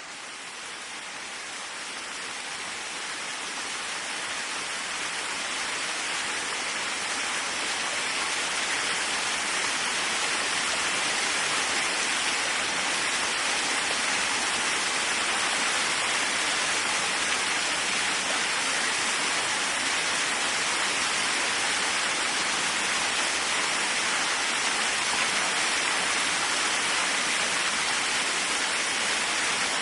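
Waterfall: a steady, even rush of falling water that fades in from silence over the first ten seconds or so, then holds level.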